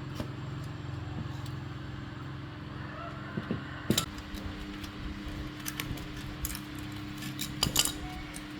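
Metal parts and tools clinking and tapping, a few sharp clinks about four seconds in and a cluster near the end, over a steady low hum.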